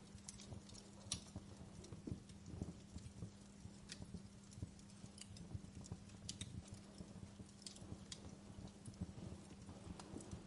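Wood fire crackling in a fireplace: irregular sharp pops and snaps over a low rumble of burning, with a steady low hum underneath.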